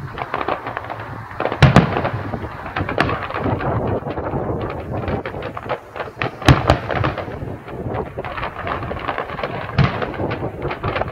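Fireworks going off: continuous dense crackling, with three louder bangs standing out, about two seconds in, just past halfway, and near the end.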